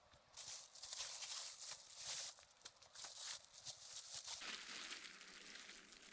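Irregular faint rustling and crunching, a string of short crackly scrapes with no steady tone.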